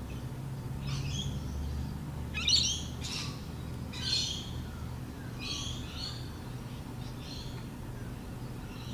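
A bird chirping about six times at uneven intervals of one to one and a half seconds, over a steady low hum.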